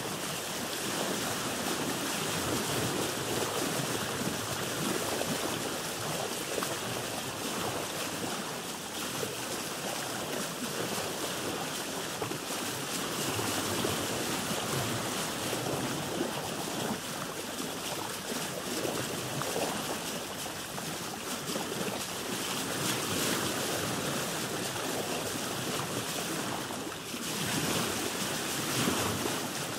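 Open-sea water heard from a boat: a continuous rush and slosh of waves, with a brief lull near the end.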